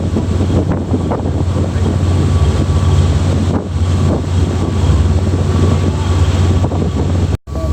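Sightseeing boat's engine running with a steady low drone, under heavy wind buffeting the microphone and the rush of water. The sound cuts out for an instant near the end.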